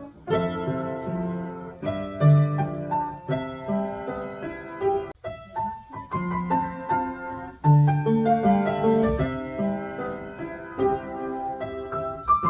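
Solo piano playing a gentle new-age piece, with melody notes over sustained lower notes and a brief break about five seconds in.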